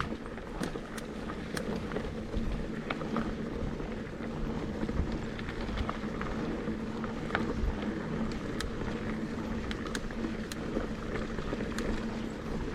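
Mountain bike being ridden on a dirt trail: steady tyre and drivetrain noise with frequent sharp clicks and rattles from the bike over the ground, over a steady low hum.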